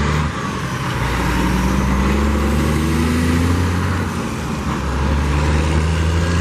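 Road traffic passing close by: car and truck engines with tyre noise, one engine's note rising steadily through the middle.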